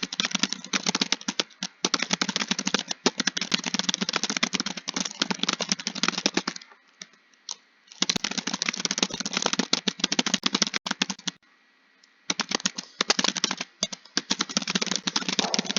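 Fast continuous typing on a keyboard, a dense run of key clicks that breaks off twice for about a second.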